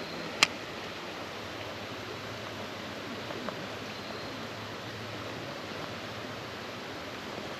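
Creek water running steadily, with one sharp click about half a second in.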